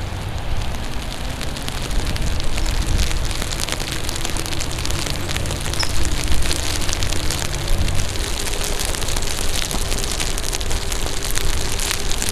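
Steady rain with many small drops striking close by, over a low rumble of wind and wet tyre noise from riding an electric unicycle.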